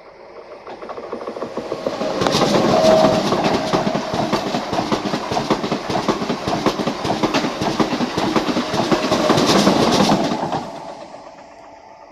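A Renfe train passing, its wheels clattering rapidly over the rail joints. The sound builds up over the first two seconds and fades away near the end.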